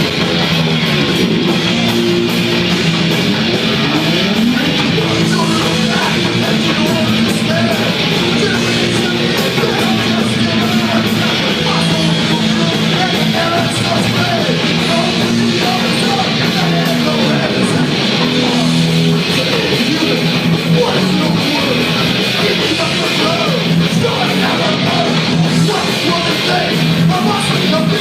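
Thrash band playing live at full volume: fast distorted electric guitar riffs with sliding notes over bass and drums, recorded from the crowd on a phone.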